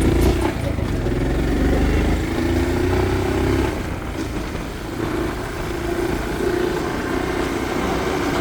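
Motorcycle engine running with a steady low rumble, its pitch shifting slightly as the revs change.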